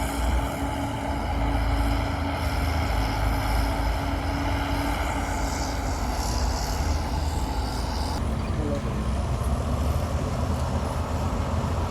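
Diesel engines of heavy earthmoving machinery running with a steady low drone and a held hum. About eight seconds in, the higher part of the sound drops away abruptly.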